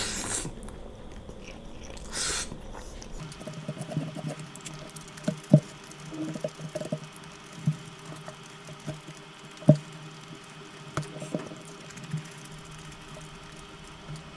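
Close-miked wet chewing of a mouthful of mutton curry and rice, with short sharp wet mouth smacks every second or two.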